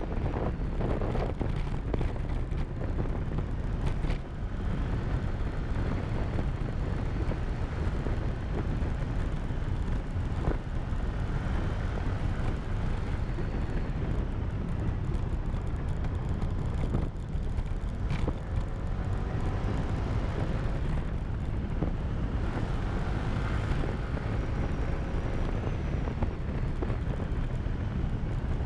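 Motorcycle riding at speed: heavy wind rumble on the microphone over the engine running. The engine's pitch rises and falls a little with speed, and there are a few brief knocks.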